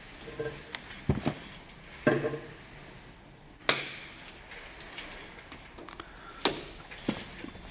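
Scattered clicks and knocks of hand tools and parts being handled during electrical hookup work. The sharpest come about a second in, two seconds in and about three and a half seconds in.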